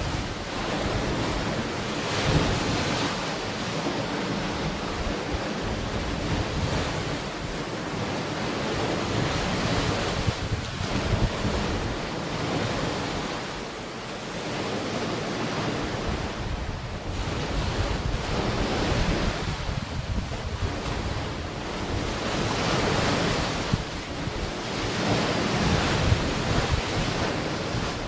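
Sea waves washing onto the shore in a continuous surge that swells and eases every few seconds, with wind buffeting the microphone.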